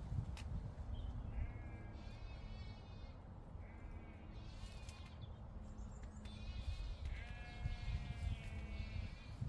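Repeated bleating calls from farm animals, several short calls in a row with a cluster near the end, over wind rumbling on the microphone.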